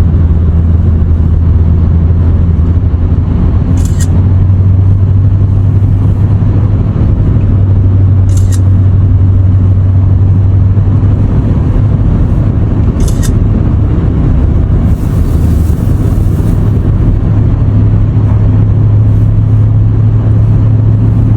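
A motor vehicle's steady low engine hum with road or cabin noise, loud and unbroken. Three short faint hisses come about four and a half seconds apart.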